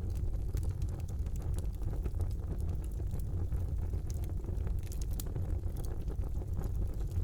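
Wood fire burning in a fireplace: a steady low rumble of the flames with frequent small, sharp crackles and pops scattered irregularly throughout.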